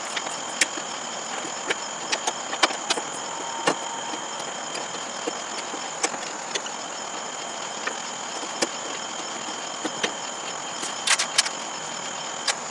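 Scattered sharp clicks and metal clanks of hand work as a riding mower's deck is refitted, a cluster of them near the end, over a steady high insect trill.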